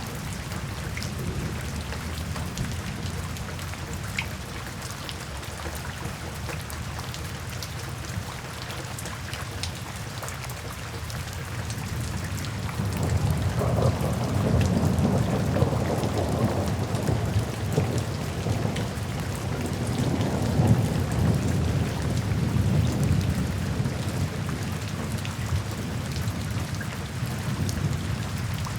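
Steady rain pattering into puddles and standing water, with scattered drop ticks. Thunder rumbles in from a little under halfway, swells and slowly fades near the end.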